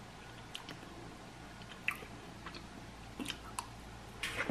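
A person chewing food with soft, quiet mouth sounds, broken by a few short, faint clicks.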